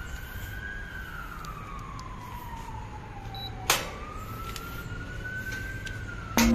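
A siren wailing, its pitch slowly rising and falling over several seconds. A single sharp click sounds a little past halfway, and another near the end.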